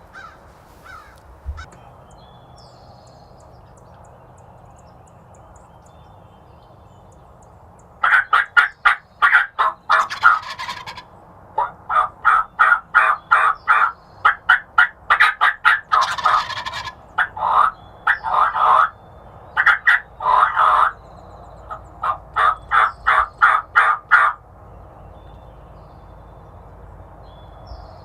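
Turkey yelping: several loud runs of quick, evenly spaced yelps, about four a second, starting about eight seconds in and stopping well before the end.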